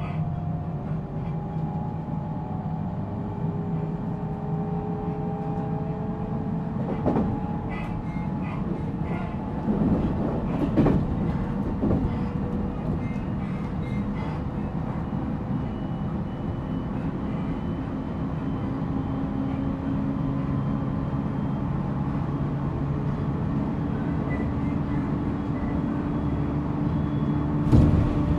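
JR Central 313 series electric train heard from inside motor car MoHa 313-7 while running, with a steady rumble of wheels on rail. Over it is a motor whine that glides in pitch at first and holds steady later. A few clacks come from the wheels over the track: one about a quarter of the way in, a small cluster a few seconds later, and a louder one near the end.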